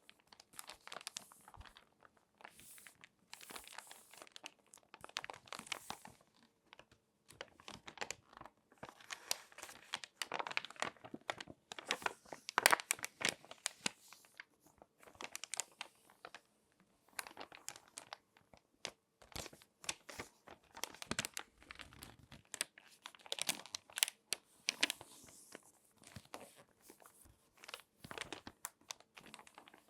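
Glossy magazine pages being folded and creased by hand, crinkling and crackling in irregular bursts with short pauses between them.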